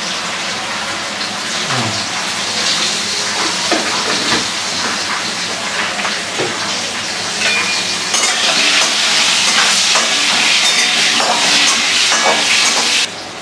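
Potatoes frying in mustard oil in a steel kadai, with salt and turmeric just added: a steady sizzle, with a spatula clinking and scraping against the pan as they are stirred. The sizzle gets louder about eight seconds in and cuts off suddenly shortly before the end.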